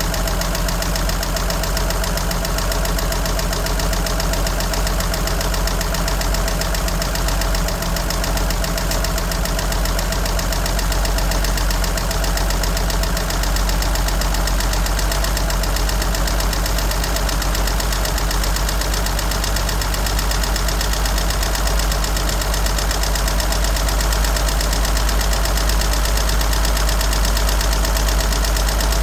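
1963 Jeep Gladiator's engine idling steadily with a rapid, even tick running through it, which the owner finds odd and can't yet explain.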